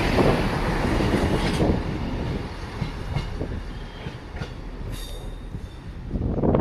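Passenger train running past along the platform and away. The rumble of its wheels on the rails fades over the first few seconds, with scattered clicks and a brief wheel squeal about five seconds in. The noise swells again at the very end.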